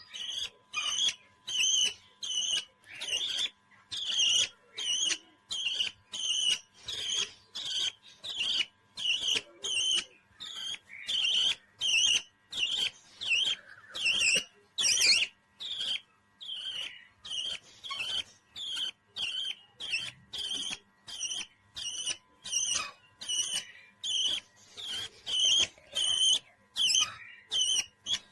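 A parrot chirping over and over, short high calls about two a second in a steady rhythm.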